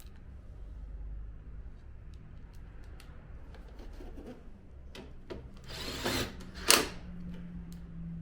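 Power screwdriver running in two short bursts a little past the middle, amid scattered clicks and knocks of parts being handled during reassembly of an air-conditioner indoor unit.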